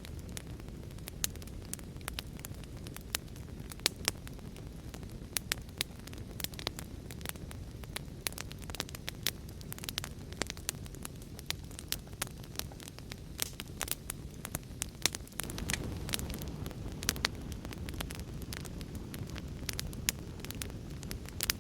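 Wood fire in a fireplace crackling, with frequent irregular sharp pops and snaps over a steady low rumble that grows louder about fifteen seconds in.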